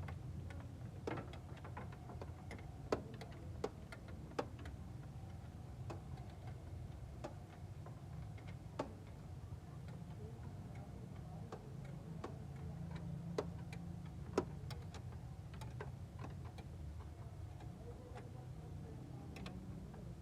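A steady low rumble with sharp clicks and taps at irregular intervals, a dozen or so spread through it.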